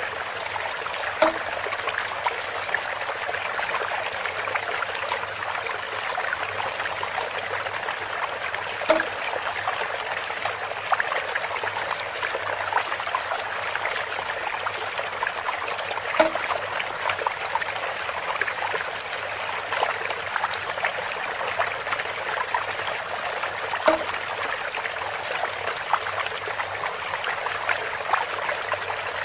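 Water trickling steadily through bamboo. A short, hollow, pitched knock sounds four times, about every seven and a half seconds.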